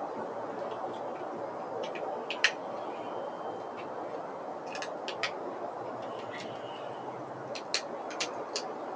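Short, sharp clicks, singly and in small clusters, the loudest about two and a half seconds in and a quick run of four or five near the end, over a steady background hum.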